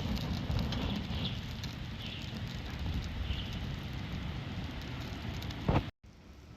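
Wood fire crackling in a small fire stand, with scattered pops over a low rumble. Near the end there is a brief loud thump, then the sound cuts off abruptly.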